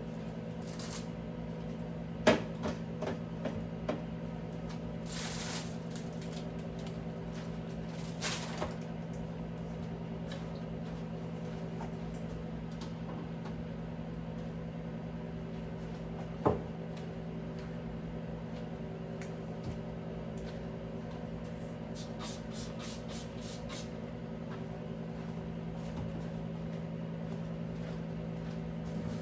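Steady low electrical hum with a few sharp knocks and short swishes, and a quick run of clicks near the end, like things being handled and doors or drawers knocking.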